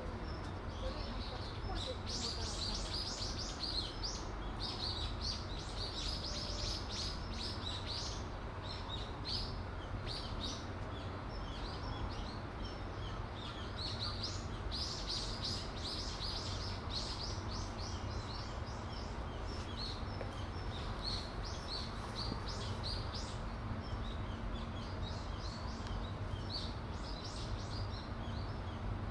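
Small birds chirping in rapid, dense runs of short high chirps, over a steady low rumble with a faint hum.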